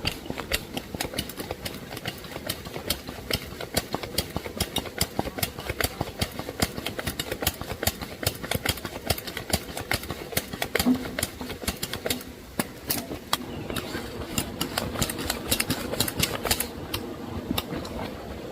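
A small engine running, with a rapid, irregular clatter of sharp clicks throughout.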